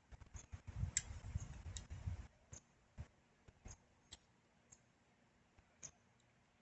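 Scattered light clicks and ticks with low handling bumps from a hand brake lever and its clamp being moved and positioned on a bicycle handlebar, busiest in the first two seconds and sparser later.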